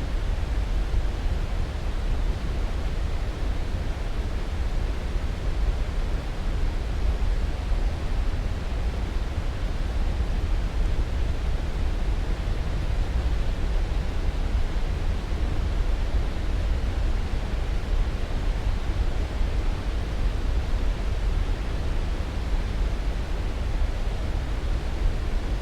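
Steady sleep-aid noise: an even, unchanging rushing hiss, heaviest in the low end.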